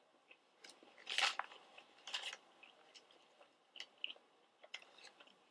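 Close-miked chewing of a breaded chicken nugget: two louder crunches about a second and two seconds in, then softer scattered mouth clicks.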